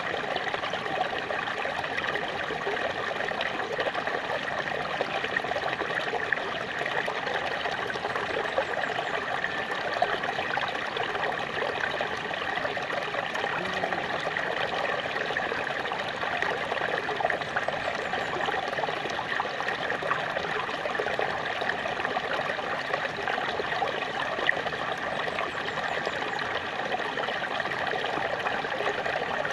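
Small waterfall: water splashing and trickling over rocks in a steady, even rush with fine bubbling detail.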